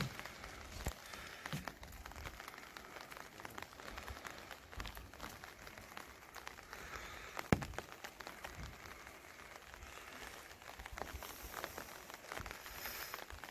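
Rain falling, with many small drops tapping irregularly on a surface close by and one sharper knock about seven and a half seconds in.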